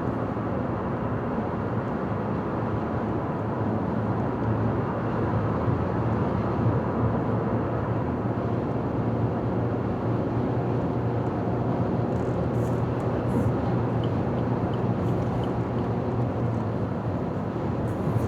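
Car driving steadily along a highway: an even road noise with a steady low hum.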